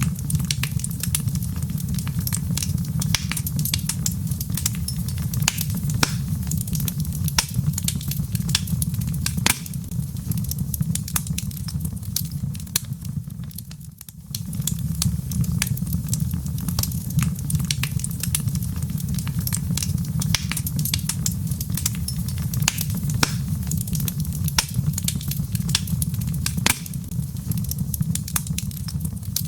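Log fire crackling, with frequent sharp pops and snaps over a steady low rumble. The sound dips briefly about halfway through, then carries on.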